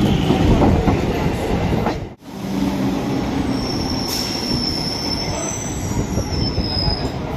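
EMU electric local train moving close past a platform, its coaches and wheels rattling and rumbling on the track. After a sudden break about two seconds in, another EMU train runs along the platform with thin, high-pitched wheel squeal in the second half.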